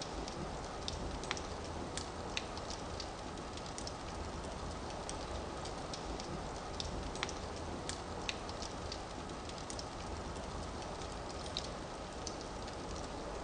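Firewood burning in a fireplace: a steady rushing hiss with irregular sharp crackles and pops.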